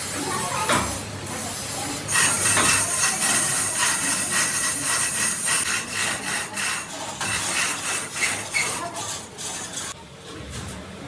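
A tool scraping against metal in quick, rough rasping strokes with a thin high ring over them, starting about two seconds in and stopping about ten seconds in.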